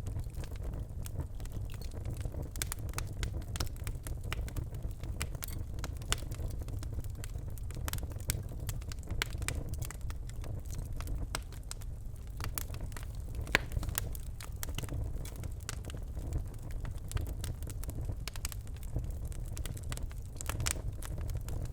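Birch logs burning in a fireplace: a steady low rumble of flame with irregular crackles and snaps throughout, one sharper pop about two-thirds of the way through.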